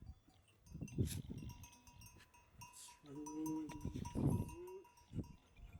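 Sheep bleating: a short call about three seconds in and a briefer one about a second later, amid a few knocks and shuffling from the flock.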